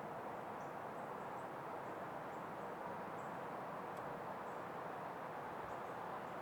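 Outdoor woodland ambience: a steady, even hiss with faint, short, high chirps scattered through it.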